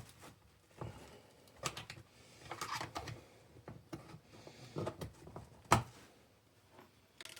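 Small metal pick prying staples out of an animatronic head: scattered light clicks and scrapes, with one sharper click near the end.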